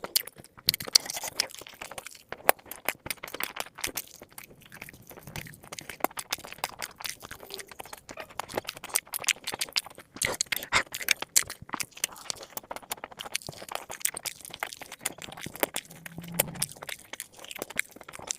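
Close-up chewing and biting into crispy fried chicken drumsticks: dense, irregular crunches throughout.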